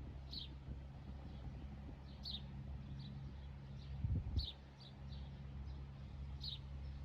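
A bird calling over and over, a short falling chirp followed by a couple of softer notes, repeated about every two seconds over a steady low hum. A couple of low thumps come about four seconds in.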